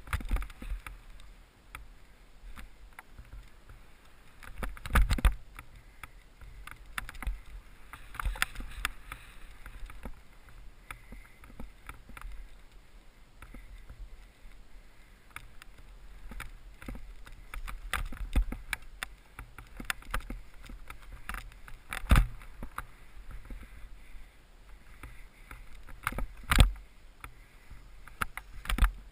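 Skiing heard through a GoPro's sealed housing: a muffled low rumble of skis on snow, with scattered knocks and a few loud thumps, the loudest about five seconds in, about twenty-two seconds in and shortly before the end.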